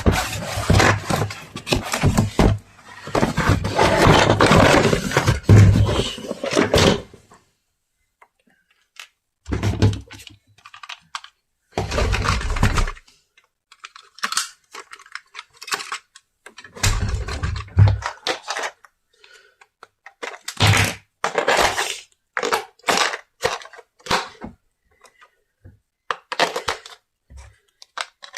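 Handling noises of hard objects: clatter, knocks and scraping, dense for the first several seconds, then in short separate bursts.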